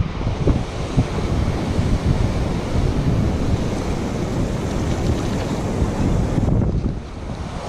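Wind buffeting the microphone over the rush of ocean surf, easing off briefly near the end.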